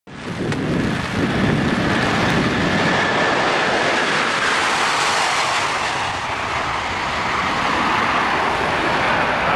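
Airbus A330 airliner's jet engines on a slow, low flyby: a steady loud rush of engine noise, with a faint high whine in the first few seconds.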